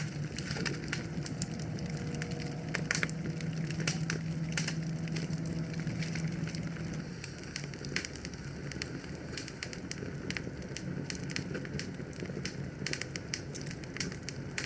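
Wood fire crackling in a fireplace, with frequent irregular sharp pops and snaps over a steady hiss of burning. A low steady hum underneath fades out about halfway through.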